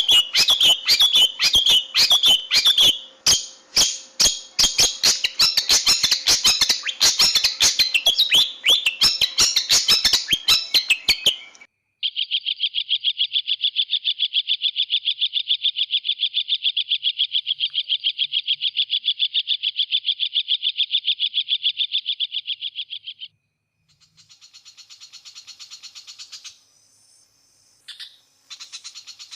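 Long-tailed shrike (cendet) singing: about ten seconds of loud, harsh, rapid chattering, then after a brief pause a long, even, very fast trill. Softer trills and a short call follow near the end.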